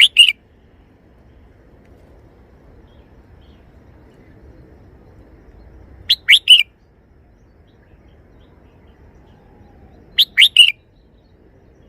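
Red-whiskered bulbul singing short phrases of three or four quick, clear notes. It sings three times, about four seconds apart.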